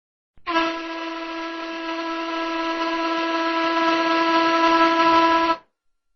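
A vehicle horn blowing one long, steady note for about five seconds, slowly growing louder before cutting off.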